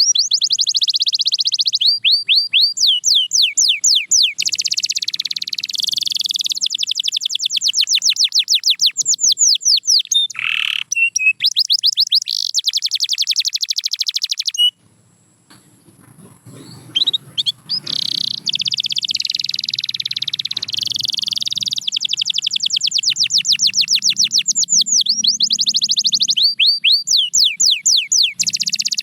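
Canary singing: long, high trills of fast, repeated sweeping notes. The song breaks off for about two seconds around the middle, then resumes.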